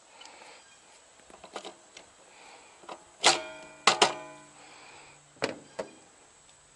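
Metal parts and tools being handled: a few sharp metallic clanks that ring briefly, two of them close together about three to four seconds in, then two lighter clicks.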